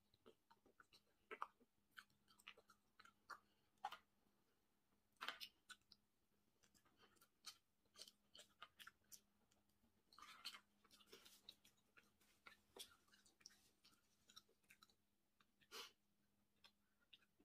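A person chewing seafood close to the microphone, with irregular wet mouth clicks and smacks.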